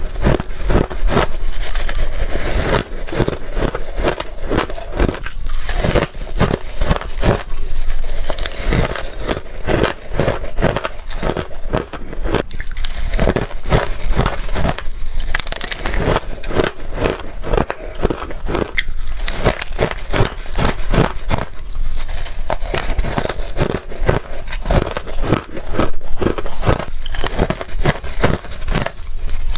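Close-miked biting and chewing of blender-shaved ice: a continuous run of rapid crunches, several a second.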